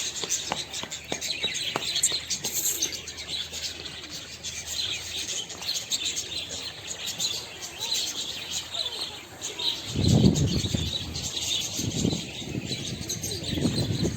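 Many small birds chirping and tweeting together. About ten seconds in, a louder low rushing noise comes in bursts over the birdsong.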